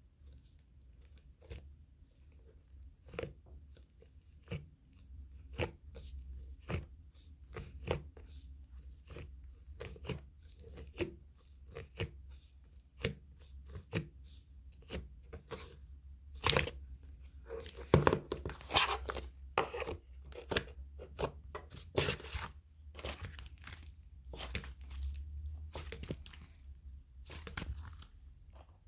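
Slime being squished and stretched by hand, giving irregular sticky pops and crackles that come thicker and louder past the middle.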